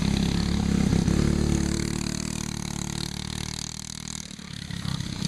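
Go-kart's Briggs & Stratton Animal single-cylinder engine running, fading away over the first few seconds and louder again near the end as the kart goes away and comes back.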